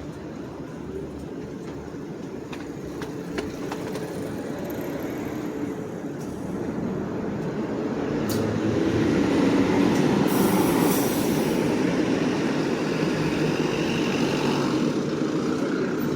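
A train passing by, its rumble growing louder about halfway through, with a brief high hiss near the middle.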